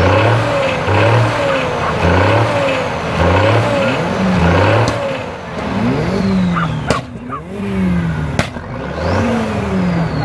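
Army truck engine being revved repeatedly, the pitch rising and dropping about once a second at first, then in longer revs. A few sharp cracks sound in the second half.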